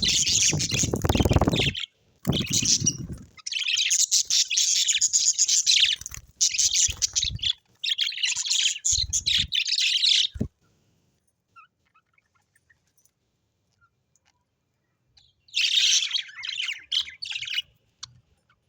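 Birds chattering and chirping in dense, rapid bursts, with a low rumble underneath during the first three seconds. The chatter stops about ten seconds in and starts again for a couple of seconds near the end.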